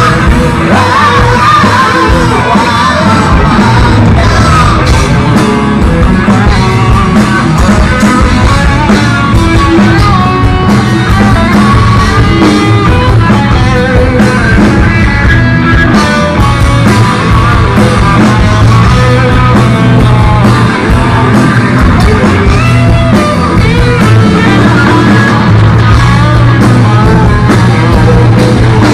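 Live rock band playing loud through a PA, with electric guitars, bass, drums and a singing voice.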